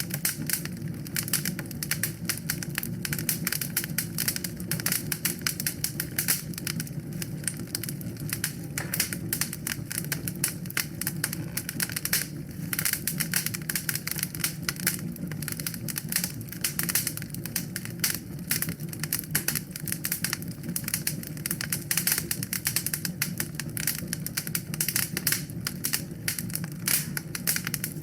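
Wood fire crackling in a fireplace: a dense, irregular run of small pops and snaps over a steady low rush of the flames.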